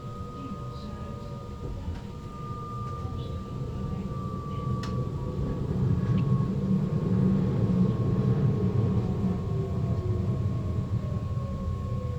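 NS Sprinter Lighttrain (SLT) electric multiple unit heard from the driver's cab: a steady low rumble of wheels on track that grows louder about halfway through. Steady electric drive tones run above it, and a lower tone glides downward near the end.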